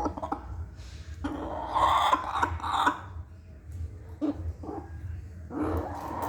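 A hen making short, throaty, cough-like calls, with a louder stretch about a second in, over a steady low hum.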